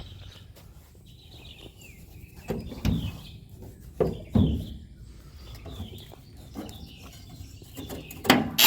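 Birds chirping faintly outdoors, with scattered knocks and thumps about two and a half and four seconds in, and a louder cluster of clunks near the end.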